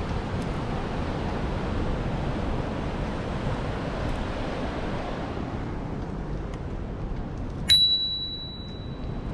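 Wind on the microphone and rolling noise from a moving bicycle, easing off about six seconds in. Near the end a bicycle bell gives a single sharp ding that rings on for about a second and a half.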